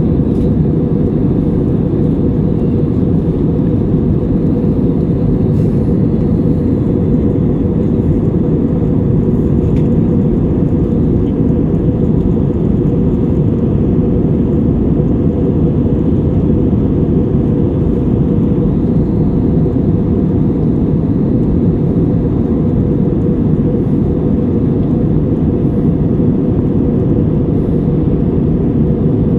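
Airbus A320-200 heard from inside the cabin: a steady, loud low rumble of engines and rushing air, unchanging throughout.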